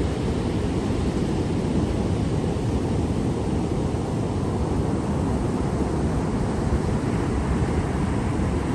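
Ocean surf making a steady, low, even rush, with no single wave standing out.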